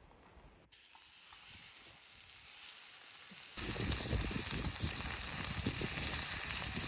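Food frying in hot oil on a pan: a faint hiss at first, then a little past halfway a loud, steady sizzle with fine crackling cuts in suddenly.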